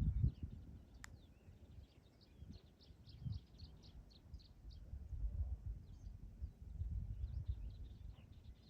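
Many small birds chirping and twittering continuously, over wind gusting on the microphone as an uneven low rumble. There is one sharp click about a second in.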